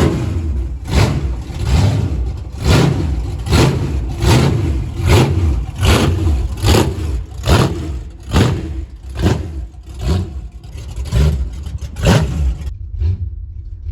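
A vehicle engine running with an even, pulsing surge a little more than once a second over a low rumble; the pulsing cuts off abruptly near the end.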